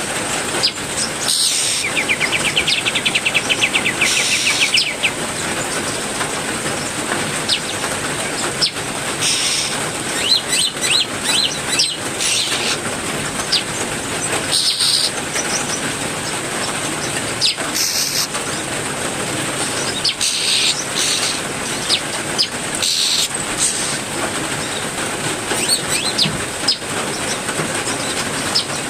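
Heavy rain falling steadily, with caged songbirds calling over it. A fast trill starts about two seconds in and lasts about three seconds, and short chirps come scattered throughout.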